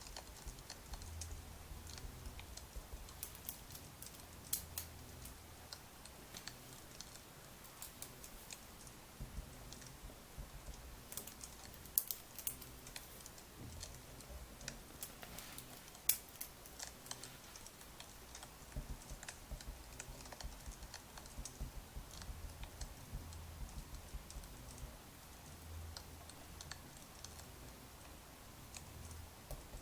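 Burning firewood crackling: irregular light pops and snaps, a few louder ones near the middle, over a soft low rumble of the fire.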